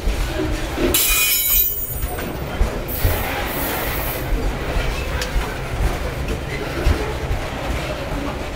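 Freight train of covered hopper cars rolling past close by: a steady rumble of steel wheels on rail with occasional clacks. A brief high wheel squeal comes about a second in.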